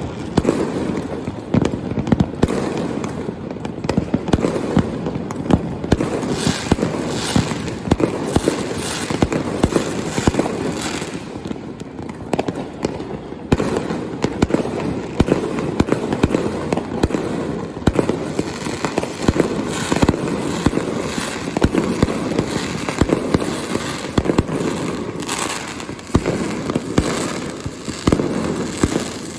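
Fireworks going off in a continuous barrage: dense booms and crackling bursts, many overlapping each second, echoing over a city.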